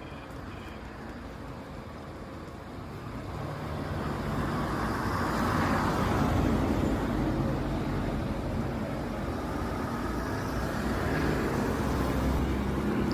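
Road traffic: a vehicle's rumble and tyre noise build up over a few seconds and peak about six seconds in, with traffic noise carrying on after.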